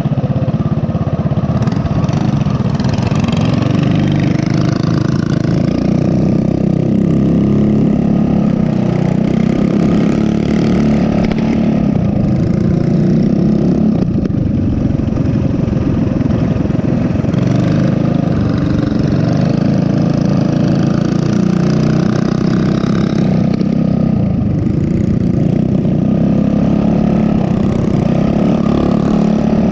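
Mini bike engine running while riding: a small single-cylinder four-stroke, its pitch rising and falling as the throttle is opened and eased off.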